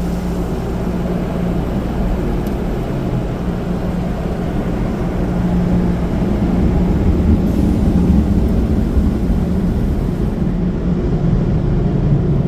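Steady drone of tunnel car wash equipment heard from inside the car, with a low hum running through it, growing gradually louder.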